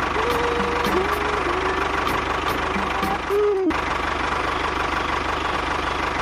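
Small engine running steadily, with a regular ticking knock. A wavering whine sits over it in the first half.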